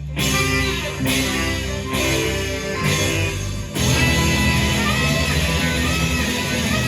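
Live rock band playing an instrumental passage with electric guitar. Four heavy accented hits land about a second apart, then the full band drives on steadily.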